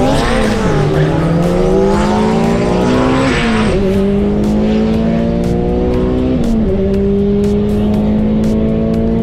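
Stock GS-R-engined Honda Civic on a full-throttle drag-strip pass, heard from inside the cabin: the engine note climbs steadily and drops back with each of three upshifts, about one, four and seven seconds in, climbing more slowly in each higher gear.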